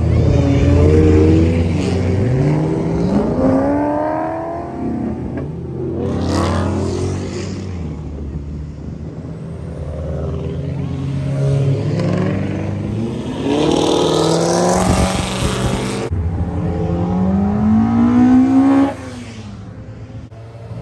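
Car engines revving and accelerating hard, several rising engine notes one after another, with sudden cuts between them.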